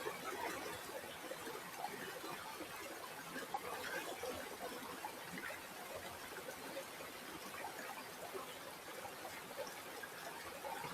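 Shallow stream water trickling and babbling over stones, a steady faint burble of many small gurgles.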